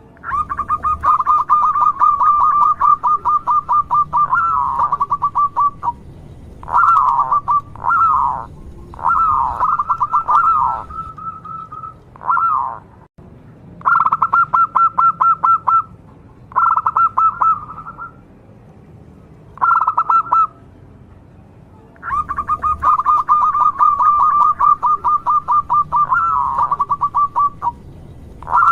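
Zebra dove (perkutut) cooing: phrases of fast, rapid-fire notes at one pitch, several ending in a few falling coos, repeated with short pauses between them. The longest phrases come at the start and about two-thirds of the way in.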